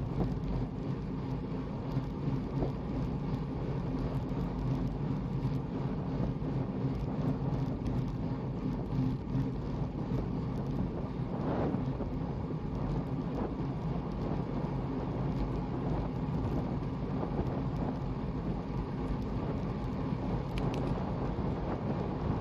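Steady rumble of a motor vehicle running at an even pace, with wind noise on the microphone.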